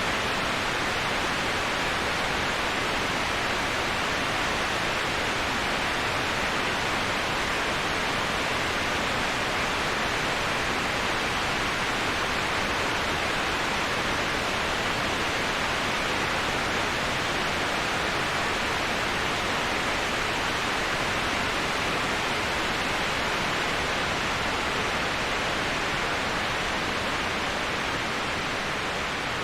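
Waterfall: a steady, even rush of falling water, easing off slightly near the end.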